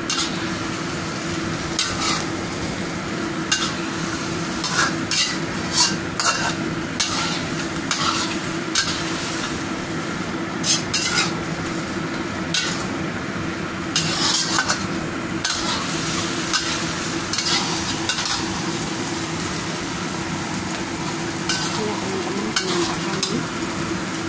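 Chicken pieces in a wet chilli and sweet soy sauce sizzling in a black wok while a metal spatula stirs them, scraping and knocking against the pan at irregular intervals, over a steady hum.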